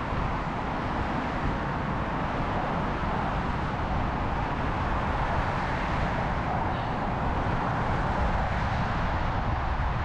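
Steady city traffic noise heard from a moving bicycle, with a constant low rumble underneath and no single sound standing out.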